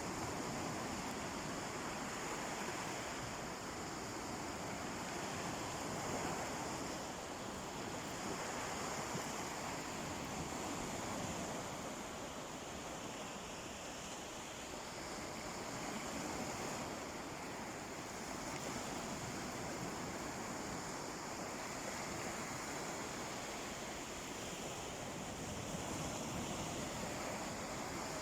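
Sea waves washing onto a beach: a steady surf wash that swells and eases slowly every few seconds.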